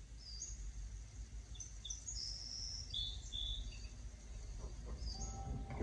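Small bird chirping: a quick run of short, high notes at varying pitch, then a couple more near the end, over a steady low rumble.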